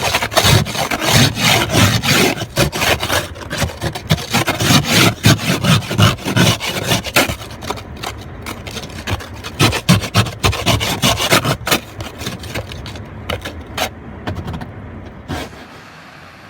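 Rapid, irregular scraping and rubbing strokes, several a second, thinning out and stopping about a second before the end.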